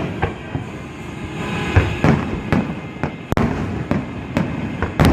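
Fireworks going off: a rapid run of sharp bangs, about two a second, over a continuous rumble of explosions.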